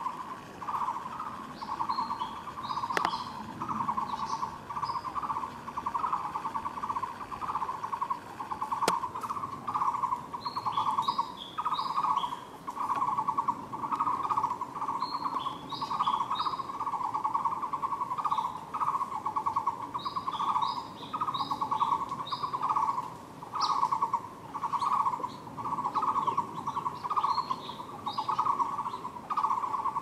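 Birdsong: one bird keeps repeating a mid-pitched rapid trilled call about once a second, while other birds add bunches of short high chirps now and then.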